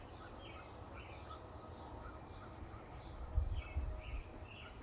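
Small birds chirping, a string of short repeated notes, with a brief low rumble about three and a half seconds in.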